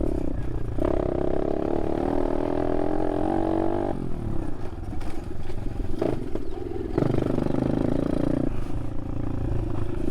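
Apollo RFZ 125cc dirt bike's small single-cylinder engine running under throttle while riding. It backs off about four seconds in and pulls hard again about seven seconds in.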